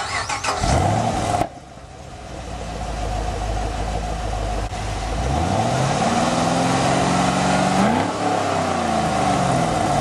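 Chevrolet Camaro SS's 6.2-litre V8 being revved: a loud burst cuts off suddenly about a second and a half in, then the engine climbs steadily in pitch, peaks about eight seconds in and drops back.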